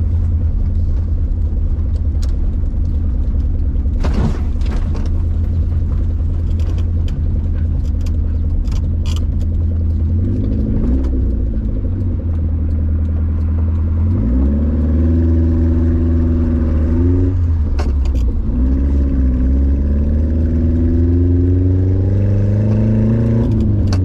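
Subaru Sambar kei truck with an aftermarket exhaust, engine running loud and low. About halfway through it accelerates, the engine pitch climbing, dropping at a gear change and climbing again. There are a couple of sharp knocks early on and mid-way.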